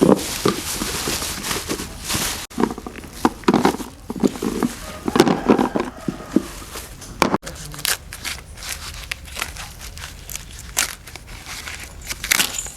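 Hands-on workshop handling noises: irregular crinkling, scraping and clicking, with abrupt breaks about two and a half and seven and a half seconds in.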